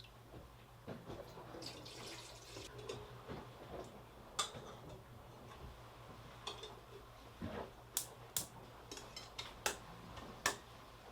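Scattered sharp clicks and light knocks, about half a dozen, over a steady low hum.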